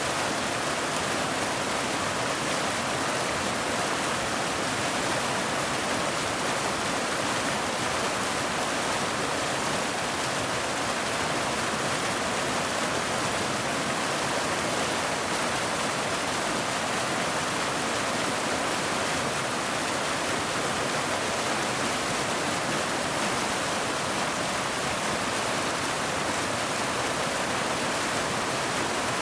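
Steady heavy rain: a dense, even hiss with no single drops standing out and no change in level.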